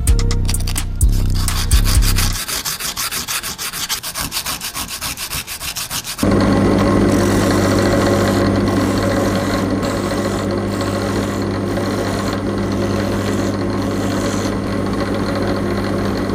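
Sanding: quick rubbing strokes, then from about six seconds in a power tool's electric motor running steadily with a sanding hiss. A few deep thumps sound in the first two seconds.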